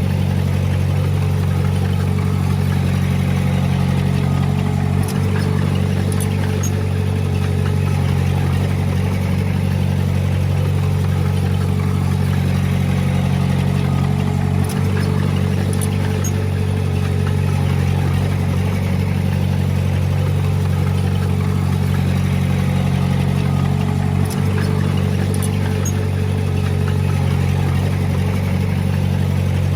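Komatsu D20P bulldozer's diesel engine running steadily at a constant speed, with a brief click about every ten seconds.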